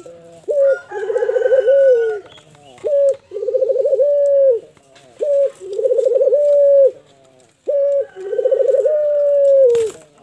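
A puter (domesticated Barbary dove) cooing steadily. It gives four calls in a row, each a short note followed by a long rolling coo. There is a brief click near the end.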